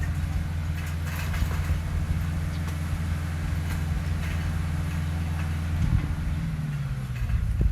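Heavy earthmoving machine's diesel engine running steadily with a few light clanks. Its pitch drops near the end.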